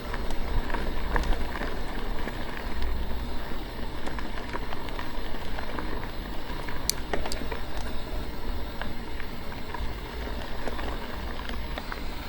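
Wind buffeting the microphone of a mountain bike on a dirt trail, over a steady rush of tyre and trail noise, with scattered clicks and rattles from the bike; one sharp click comes about seven seconds in.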